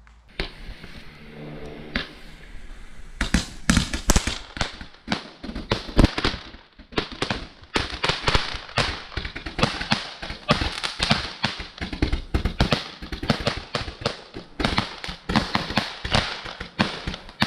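Skycrafter 'Snappy Days' 100-shot firework barrage going off: a hiss first, then from about three seconds in a rapid, unbroken string of cracking shots.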